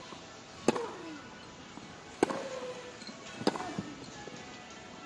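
Tennis rally: three racquet strikes on the ball, about one every second and a quarter, each followed by a short grunt from the player hitting.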